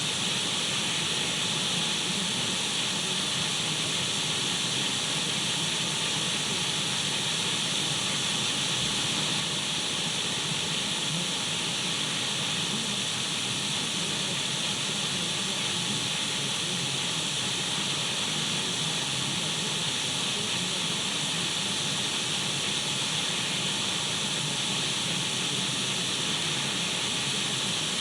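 Radio static: a steady, unbroken hiss.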